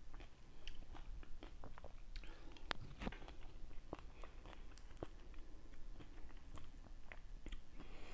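A person chewing dragon fruit close to the microphone, with irregular small mouth clicks and smacks.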